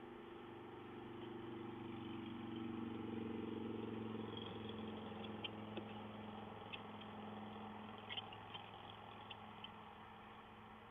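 A low engine hum from a vehicle passing at a distance, growing louder over the first few seconds and then slowly fading. A few faint short ticks come in the second half.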